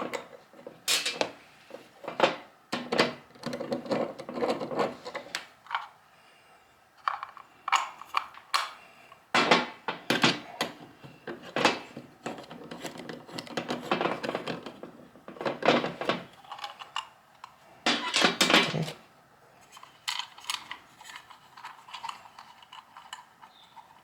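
Irregular clinks, clicks and clatter of small metal hardware and hand tools being handled: bolts and lock nuts being fitted to fasten a 3D-printed wheel center cap.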